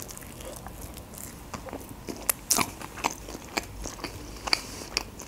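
Close-miked chewing of a mouthful of sushi roll: irregular wet mouth clicks and smacks, with a few sharper clicks about halfway through.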